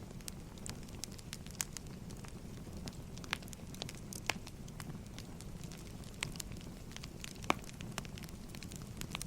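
Wood fire burning: a steady low rumble with frequent sharp crackles and pops, two louder pops about four and seven and a half seconds in.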